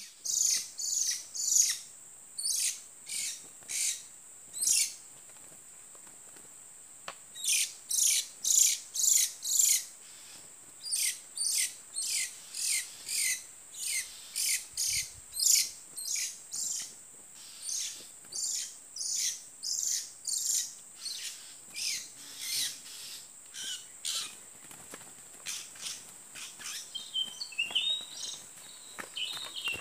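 Oriental magpie-robin calling: a harsh, sharp note repeated about twice a second in long runs, with one short pause early on. A steady high insect drone runs underneath, and softer twittering calls come in near the end.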